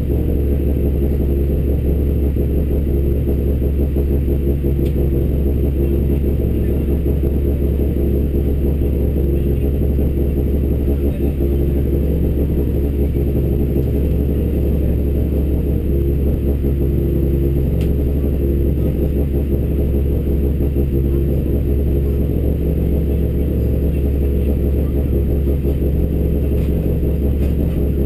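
Honda Civic Type R EP3's four-cylinder engine idling steadily with the car standing still, heard from inside its cabin as a deep, even rumble.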